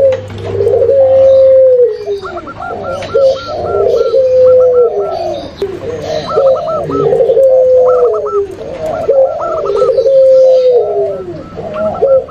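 Several doves cooing over one another, from a mixed recording of zebra dove, spotted dove and puter pelung calls used to lure wild doves. Low coos repeat back to back, each holding and then dropping in pitch at the end, with a fainter quick run of higher notes over them.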